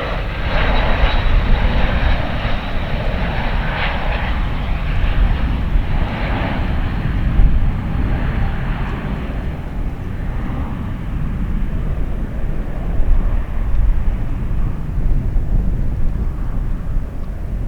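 Heavy jet airliner's engines at takeoff power, a loud steady jet roar; the higher hiss of the roar fades after about ten seconds as the aircraft climbs away, leaving a low rumble.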